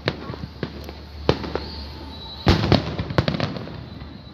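Fireworks bursting in a series of sharp bangs. The biggest comes about two and a half seconds in and is followed by a run of crackling.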